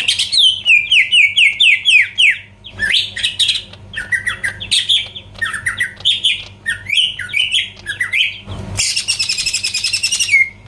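Green leafbird (cucak ijo) singing a fast run of sharp, falling whistled notes, with a harsh buzzing rattle lasting about a second and a half near the end.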